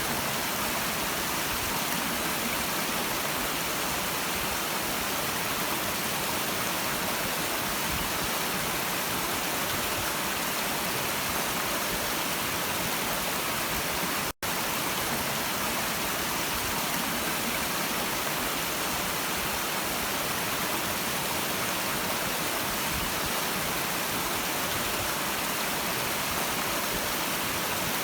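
Stream water flowing in a steady, even rush, with a split-second cut to silence about halfway through.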